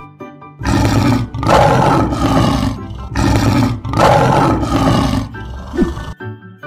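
Lion roar sound effect: several loud roars in a row, starting about half a second in and stopping about six seconds in, over background music.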